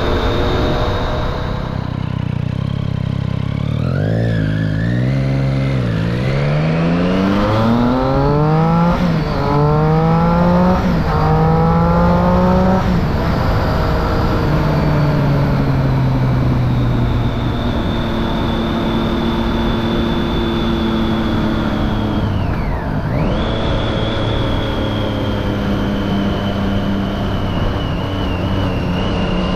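2013 Triumph Street Triple 675's inline three-cylinder engine through a Remus Hypercone exhaust with the dB killer fitted. It starts on a steady note, then from about four seconds in revs up hard through several quick upshifts, the pitch climbing and dropping back at each shift. From about thirteen seconds on it holds a steady note.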